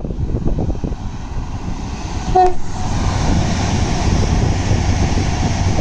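Passenger train approaching and passing beneath, giving one short toot on its horn about two and a half seconds in, followed by the steady rushing noise of the train running by. Wind buffets the microphone in the first second or so.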